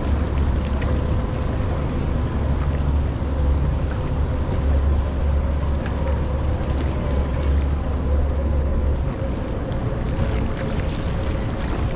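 Steady low rumble and rush of water, with wind on the microphone and a faint steady hum underneath.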